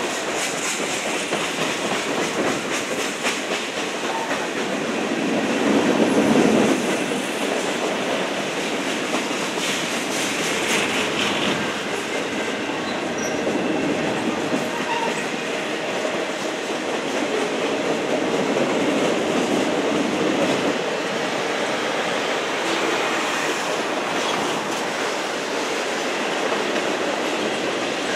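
Freight cars of a long train rolling steadily past: a continuous rumble of steel wheels on the rails with repeated clicks, swelling louder about six seconds in.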